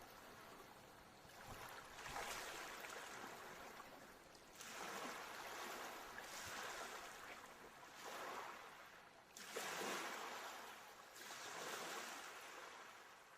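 Ocean surf: waves washing in and drawing back in about six rising and falling swells, each a second or two long.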